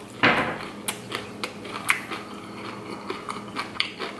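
A person chewing crunchy breaded fried shrimp close to the microphone: a short breathy rush at the start, then a run of irregular crisp crunches.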